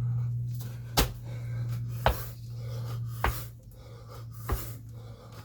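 A thud about every second and a bit as feet land from repeated jump squats, with hard panting breaths between the landings. A steady low hum runs underneath.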